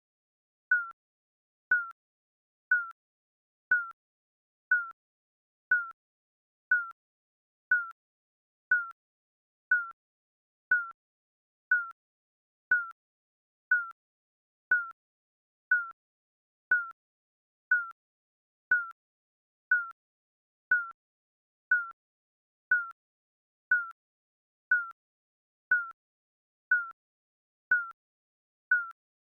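Digital countdown timer beeping: a short, slightly falling electronic blip repeated evenly about once a second.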